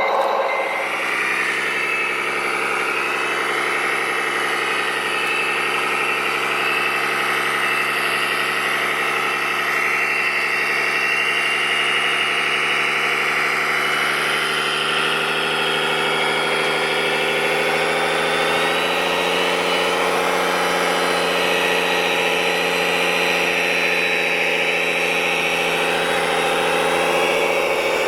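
Scale RC truck's sound module playing a diesel engine idling steadily, with the engine pitch rising slightly a little past halfway.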